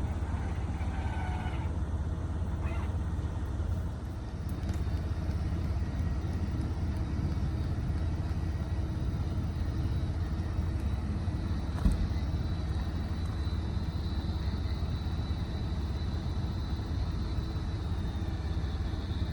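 Steady low rumble of an idling vehicle engine, with a single click about twelve seconds in and a steady high whine coming in from then on.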